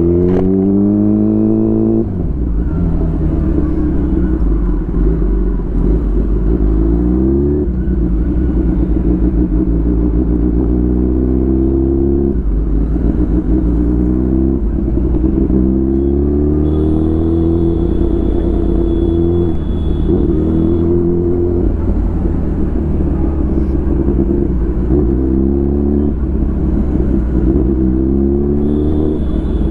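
Kawasaki ZX10R's inline-four engine on an Arrow full exhaust system, pulling hard through the gears. The pitch climbs on each pull and drops back at every upshift, several times over, with a steady low rumble underneath.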